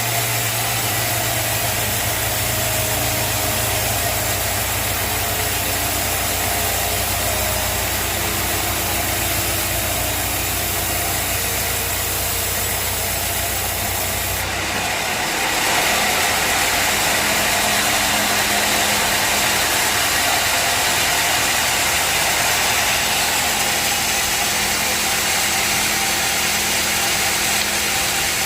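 Sawmill machinery running steadily with a low engine-like hum. About halfway through the sound shifts: the low hum drops away and a louder, hissier machine noise with a higher steady tone takes over.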